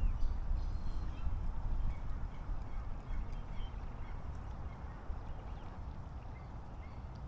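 Wind rumbling on the microphone, with faint, scattered short bird chirps.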